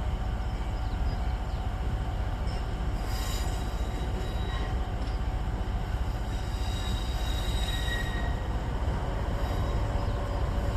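Toyama Chiho Railway electric train moving slowly at a station: a steady low rumble, with faint high-pitched wheel squeals now and then, one clearer about eight seconds in.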